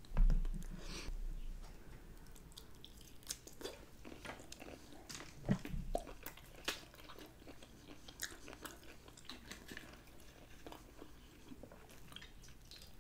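Close-miked chewing of cooked shrimp, with faint scattered wet mouth clicks, after a louder low thump at the very start.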